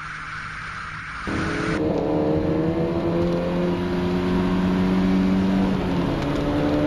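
After about a second of quieter trackside sound, the VW Golf Mk1 cabrio's 1.8-litre four-cylinder engine is heard from inside the cabin under acceleration. Its pitch climbs steadily, drops about six seconds in as it shifts up, then pulls again.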